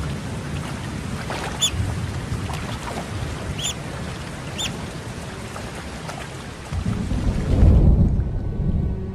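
Steady rain falling, with thunder rolling in low and swelling about seven seconds in. Three short high chirps sound through the rain in the first half.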